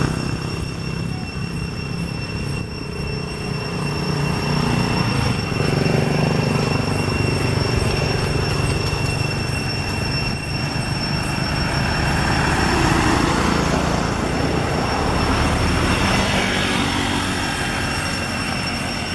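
Steady rumbling noise of a vehicle in motion, with a low engine-like hum and two thin, steady high-pitched tones above it.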